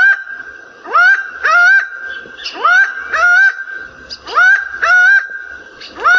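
Laughing falcon calling: loud paired notes, each sweeping sharply up and then held level, a pair roughly every second and a half.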